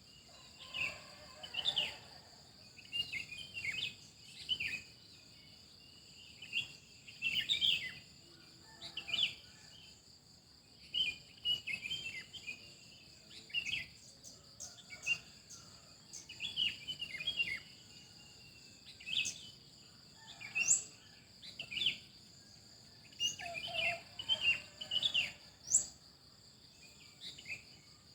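Songbirds chirping in short bursts every second or two, with a few quick rising whistles, over a steady high-pitched insect trill.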